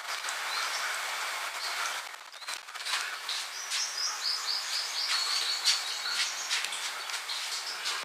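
Birds chirping: a quick run of short, high notes about halfway through, with scattered clicks, over a steady hiss that drops away about two seconds in.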